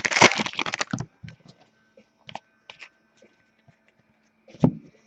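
Foil trading-card pack wrapper crinkling as it is handled and torn for about a second, then a few faint clicks of card handling and one sharp thump near the end.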